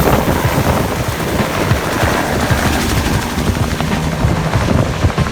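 Helicopter running in flight: a loud, steady rotor and engine din with a fast flutter.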